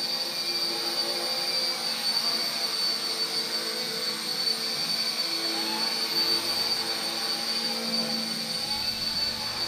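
Small electric RC helicopter (RC Era C032 UH-1 Huey) in flight: a steady high motor whine with the whir of its rotor, the lower notes shifting slightly as the motor speed changes.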